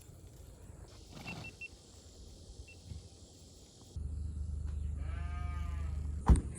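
A goat bleats once, a short wavering call, about five seconds in, over a low steady rumble. A single sharp knock comes just before the end.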